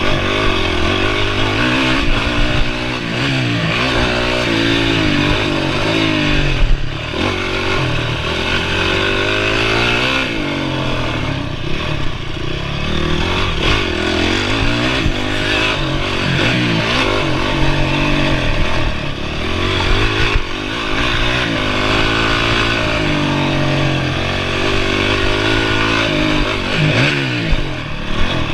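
Honda CRF450R motocross bike's single-cylinder four-stroke engine, revving up and backing off again and again as it is ridden around the track. Its pitch climbs and drops every second or two.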